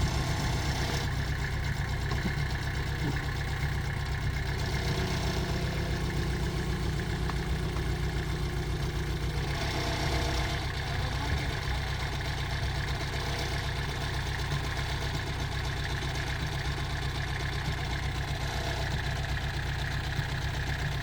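Diesel engine of heavy earthmoving machinery running steadily with a deep, even drone.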